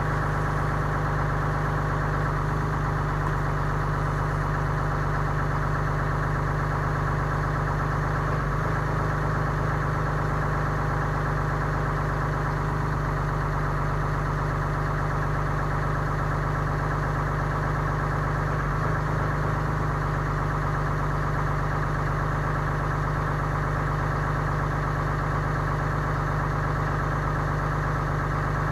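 2015 Ram 3500's 6.7-litre Cummins inline-six turbo-diesel idling steadily, still cold after a 7-degree cold start.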